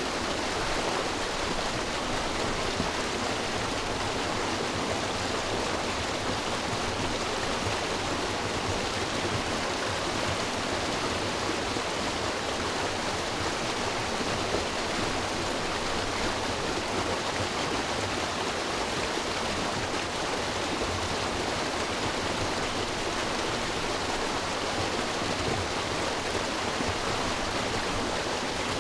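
River water rushing and splashing over rocks: a steady, even roar without breaks.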